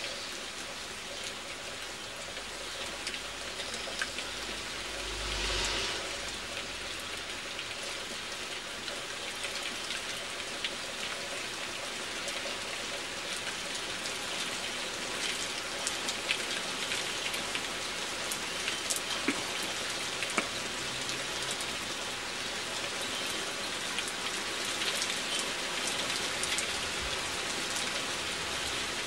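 Steady rain falling, with many scattered sharp drop impacts close by and a brief low rumble about five seconds in.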